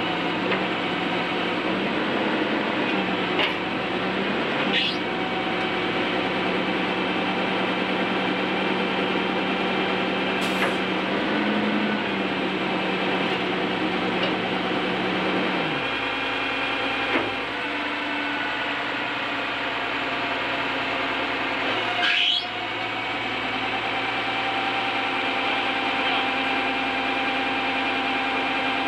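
Bucket truck running: a steady mechanical hum of several held tones that steps down in pitch about halfway through, with a few brief sweeping squeaks and clicks.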